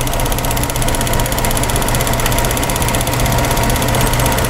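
Car engine idling steadily, with an even low hum that does not change.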